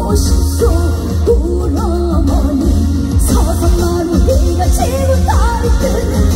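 A woman singing a trot song live over amplified band accompaniment, her voice gliding with vibrato over a steady bass beat.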